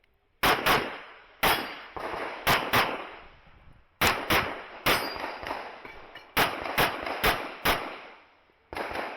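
Handgun fired rapidly during an IPSC stage: about a dozen shots, mostly in quick pairs, each with a short echoing tail.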